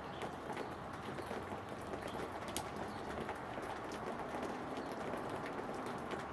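Steady rain falling in a storm, with scattered drops tapping close by and one sharper tap about two and a half seconds in.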